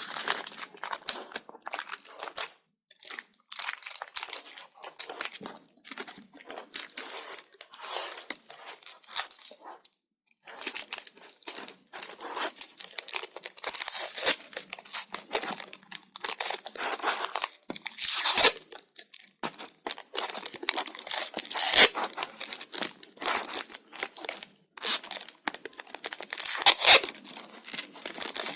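Cardboard and paper rustling and scraping in irregular short bursts as two cardboard discs are handled and pressed together for gluing.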